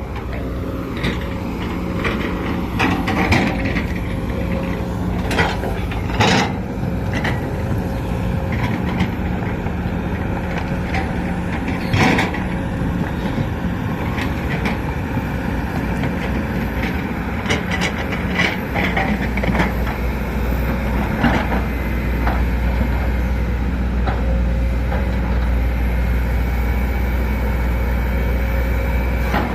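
Sumitomo SH210LC hydraulic excavator's diesel engine running steadily, with scattered clanks and knocks. About two-thirds of the way in, a deeper low rumble comes in and holds.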